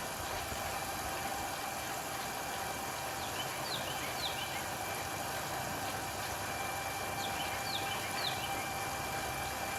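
Pump draining a small pool, running steadily with a constant hum and a faint steady whine. Two small groups of short high chirps sound over it, about three seconds in and again about seven seconds in.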